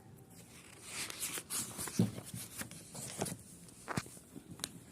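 Faint scattered clicks and short rustles, the loudest a sharp click about two seconds in and another near four seconds.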